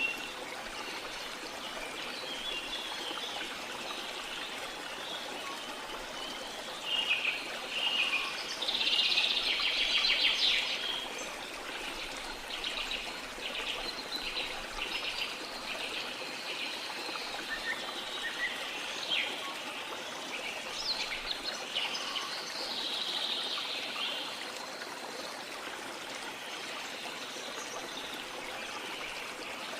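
Steady rush of a flowing river with birds singing over it. The birdsong is loudest about seven to eleven seconds in, followed by a run of quick repeated notes, with more calls later on.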